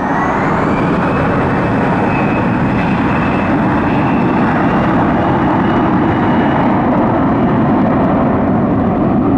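Airbus A320-200 jet engines at takeoff power: a loud, steady jet noise with a whine that rises in pitch over the first second and then holds.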